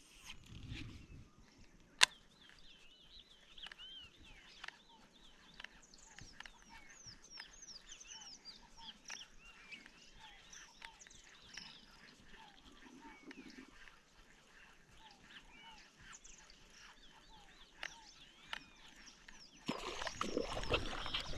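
Many birds calling at dusk, a steady scatter of short chirps and whistles, with a single sharp click about two seconds in and a louder rustling noise starting near the end.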